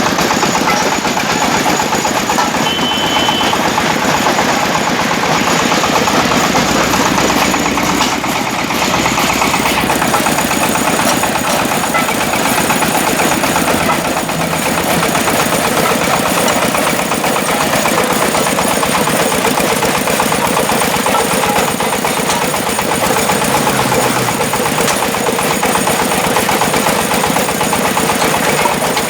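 Engine-driven brick-breaking machine running: a loud, steady mechanical clatter with no let-up.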